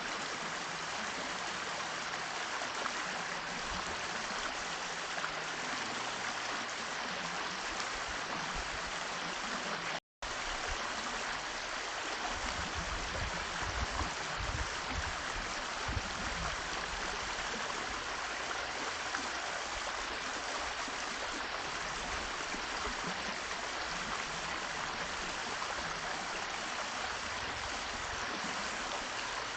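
Steady rush of running water, broken by a brief cut to silence about ten seconds in.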